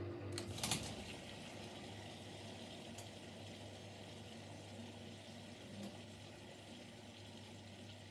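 Siemens Siwamat Plus 574 washing machine: a pulsing hum stops with a sharp click about half a second in, then water rushes steadily into the drum as it fills for the second rinse.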